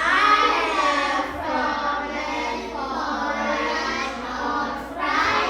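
A group of children's voices chanting together in unison, drawn out and sing-song, like a class reading a sentence aloud in chorus; a new phrase starts about five seconds in.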